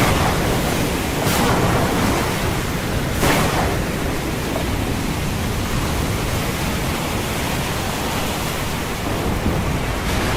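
Storm wind and heavy sea: a loud, steady rush of wind and waves, with wind buffeting the microphone. Brief surges come about a second in and again about three seconds in.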